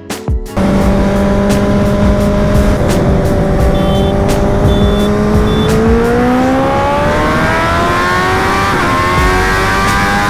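Sport-bike engine at highway speed, heard under heavy wind noise on the helmet microphone. About six seconds in it starts rising steadily in pitch as the bike accelerates hard, with a quick break near nine seconds, like an upshift.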